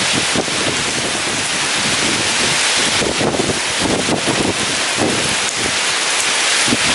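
Heavy rain falling steadily in a storm, with strong gusting wind surging in low rumbling swells.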